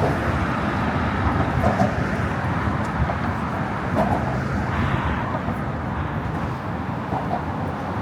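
Steady rush of road traffic, cars passing on the bridge roadway.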